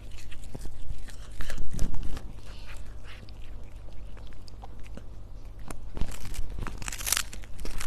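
A cat crunching and chewing food, with many small sharp bite clicks and a brief hissy rustle about seven seconds in.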